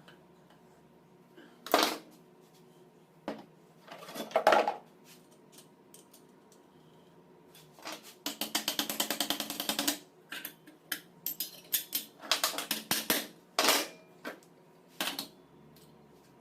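Metal tools and parts clinking and knocking in a workshop: a few separate knocks, then a rapid run of strokes for about two seconds, then more scattered clicks.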